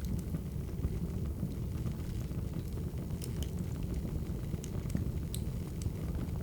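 Burning firewood crackling: scattered sharp pops and snaps over a steady low rumble.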